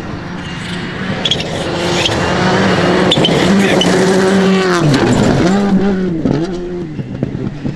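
Rally car on a gravel stage, its engine growing louder as it approaches and passes at speed. About five seconds in, the engine note drops and climbs again several times in quick succession.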